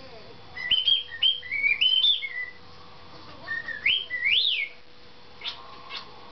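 Cockatiel whistling: a quick run of short stepped notes, then two upward whistles, the second rising and falling back like a wolf whistle, followed by two short chirps near the end.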